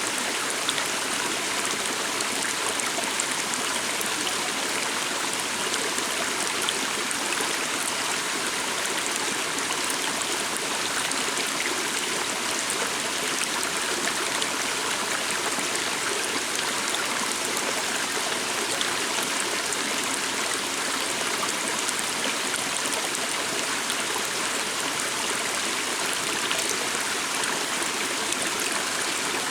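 Water of a forest stream running steadily, a constant rushing splash.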